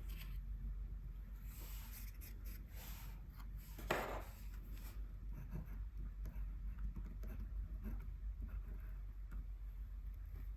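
Gouache swatching on paper: faint scratchy strokes across the paper, with one louder stroke about four seconds in, over a steady low hum.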